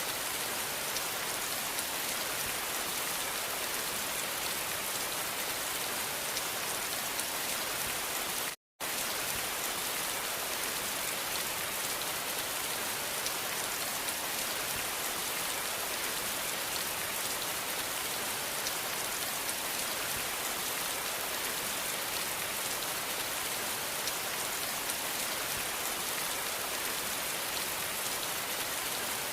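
Steady rain falling, an even hiss strongest in the high range. About eight and a half seconds in, the sound cuts out completely for a split second, then resumes.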